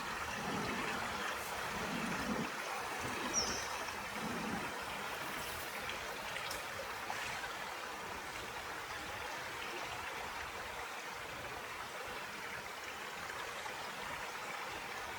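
Steady flowing river water with a trickling sound, with one brief high chirp about three seconds in.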